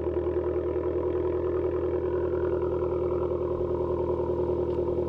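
Dodge Dart's 1.4-litre turbocharged four-cylinder idling steadily just after a cold start. It runs through a straight-piped exhaust with the muffler and resonator removed.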